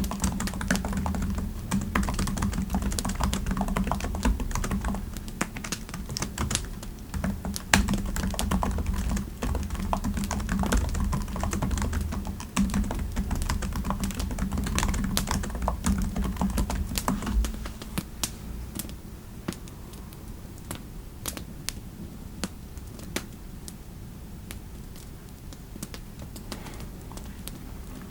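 Typing on a computer keyboard: a steady run of key clicks over a low hum. About two-thirds of the way through, the hum stops and the typing thins out to scattered clicks.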